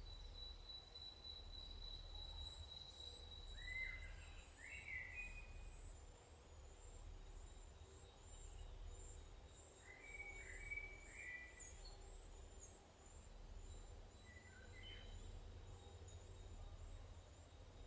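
Faint outdoor bird sounds over a low wind rumble: a thin, high chirp repeated about twice a second, and a few short downward-slurred calls in small groups about four seconds in, around ten to eleven seconds and near fifteen seconds.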